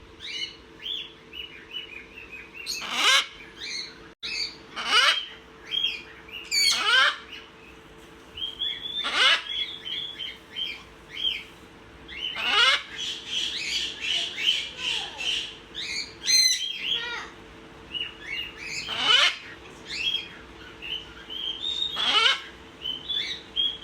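Pet parrots chattering with quick chirps and whistles, broken every two to three seconds by a loud squawk that falls in pitch.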